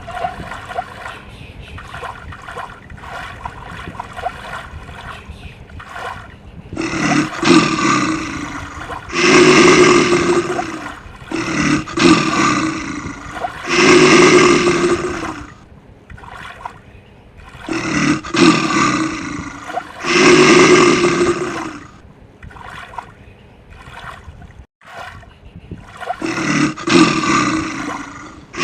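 Loud, rough animal roars in repeated bursts of a second or two, coming in pairs after a quieter opening of about six seconds.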